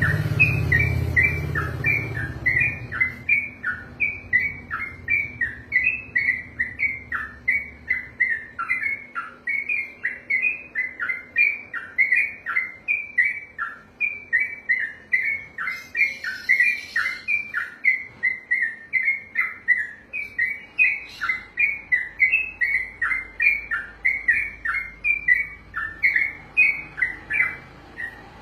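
Yellow-vented bulbul (trucukan) singing a long, unbroken run of short notes that slur downward, repeated about twice a second, the rapid continuous 'ropel' song. The run stops just before the end.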